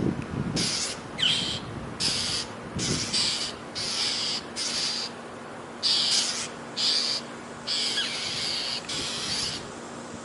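Small birds scolding a hawk: a rapid series of harsh, raspy alarm calls, about two a second with a few short pauses, the mobbing calls birds give at a predator.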